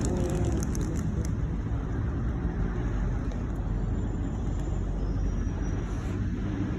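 Steady low rumble of road vehicles, a continuous traffic noise with no single event standing out.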